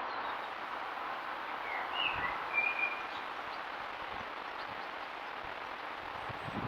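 A few short chirps from small garden birds about two seconds in, over steady outdoor background noise.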